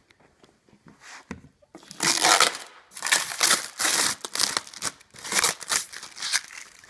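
Packaging crinkling and rustling as it is handled, in dense irregular bursts that begin about two seconds in.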